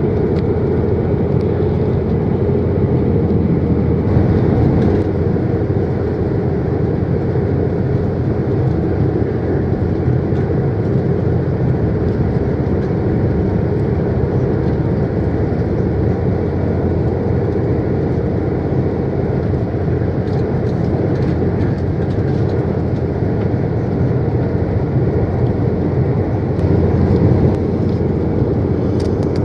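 Steady rumble of a passenger train running along the line, heard from inside the carriage.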